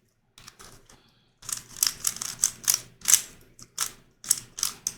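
Plastic pieces of a YuXin Corner Helicopter 2x2 twisty puzzle clacking as it is turned by hand: a few faint clicks, then from about a second and a half in a run of quick turns, two or three clacks a second.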